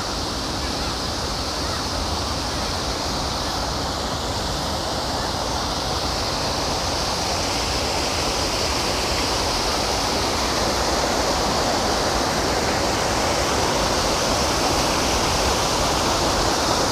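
Waterfall: water pouring in a steady, even rush that grows gradually louder.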